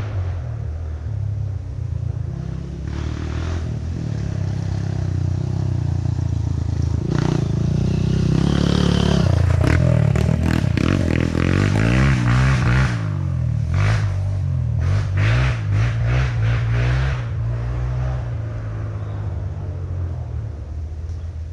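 Off-road trail motorcycle engines running, one revving hard and growing louder to a peak in the middle, its pitch dipping and then climbing again about nine seconds in, before easing off toward the end.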